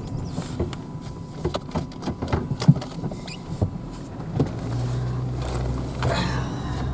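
Truck with a camper driving slowly on a rough dirt road: scattered clicks, knocks and rattles for the first few seconds, with one sharp knock, then a steady low engine drone from a little past halfway.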